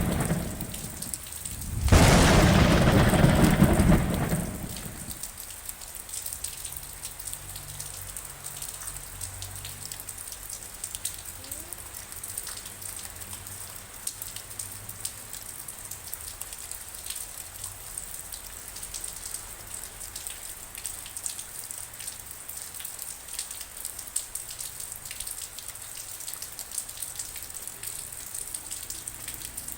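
Steady rain falling, with a loud crack of thunder about two seconds in that rumbles away over the next few seconds. After that, rain keeps pattering with scattered individual drops.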